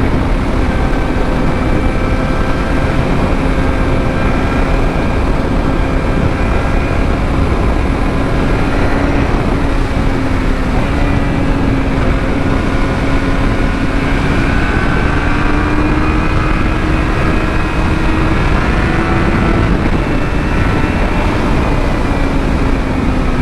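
Yamaha R6 sportbike's inline-four engine running at steady cruising revs under heavy wind rush on a helmet-mounted microphone. The engine pitch rises a little about two-thirds through, then settles.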